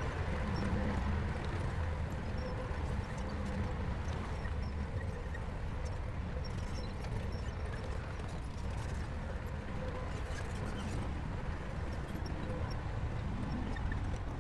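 Shantui crawler bulldozer's diesel engine running steadily, with the light clinking clatter of its steel tracks.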